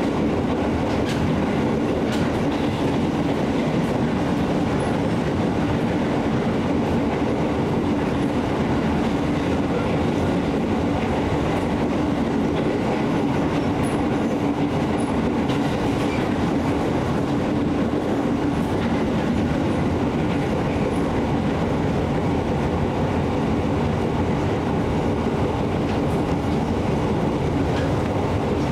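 Steady running rumble of a KAI Commuter electric train, heard from inside the carriage while it rolls between stations, with a few faint clicks of the wheels over the track.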